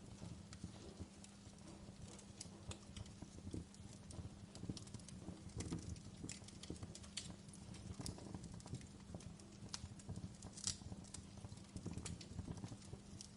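Wood logs burning in a fireplace, crackling with frequent irregular pops and snaps over a steady low rumble.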